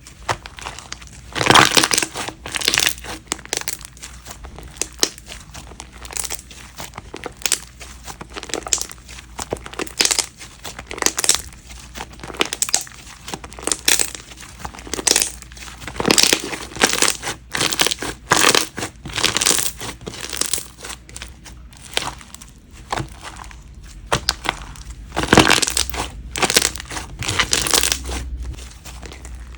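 Repeated crinkling and crunching from something being handled and pressed, in short irregular bursts about one to two a second, some louder clusters along the way.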